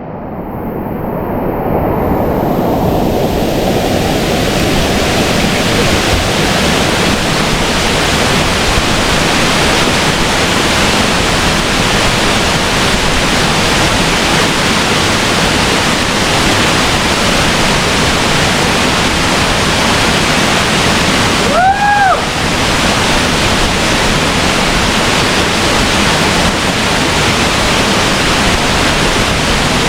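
Waterfall pouring steadily: a loud, even rush of falling water that builds up over the first couple of seconds. About two-thirds of the way through, a brief whistle-like tone rises and falls.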